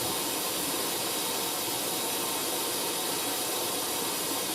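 Hoover SIX AAA160 washing machine filling with water at the start of its cycle: a steady hiss of water running in through the inlet.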